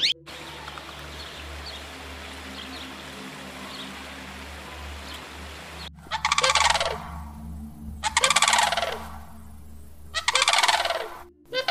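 Steady background hiss with faint high chirps, then, about six seconds in, three loud bird calls, each about a second long and roughly two seconds apart, each a fast pulsing rattle.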